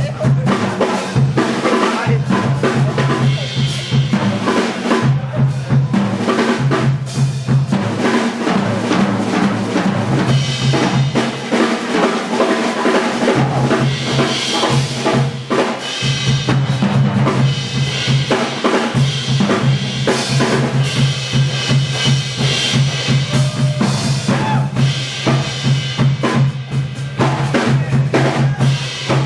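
Jazz big band playing, with the drum kit to the fore: dense, fast snare, bass drum and cymbal hits over the band's sustained low notes.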